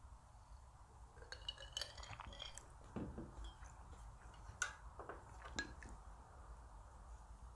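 Light clinks and taps of utensils against dishes and glassware, a few ringing briefly, scattered between about one and six seconds in.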